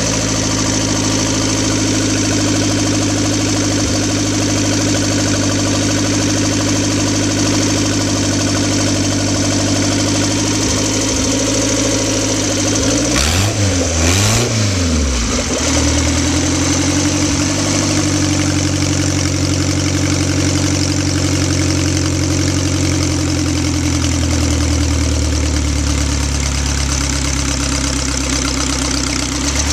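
1938 Indian Four's inline four-cylinder engine idling steadily after a cold start, with one brief rev about halfway through.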